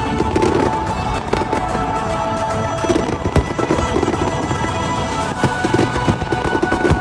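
Aerial fireworks bursting and crackling in a dense run of pops and bangs, the sharpest bang about three and a half seconds in, over loud show music.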